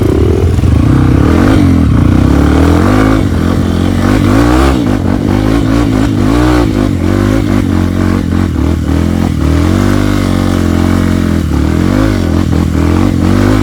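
Trail motorcycle engine revving up and down over and over, its pitch rising and falling every second or two as it is ridden.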